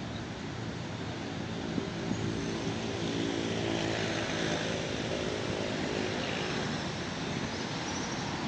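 An engine passing by, its hum growing louder from about a second in and fading again near the end, over a steady background hiss.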